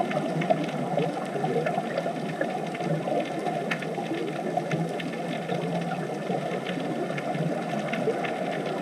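Muffled underwater ambience: a steady low rushing of water with scattered faint clicks and crackles.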